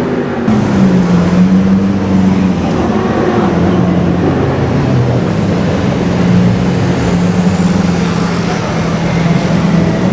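Equus Throwback S's supercharged V8 running at a steady low engine speed, its exhaust loud and even, the pitch shifting slightly up and down.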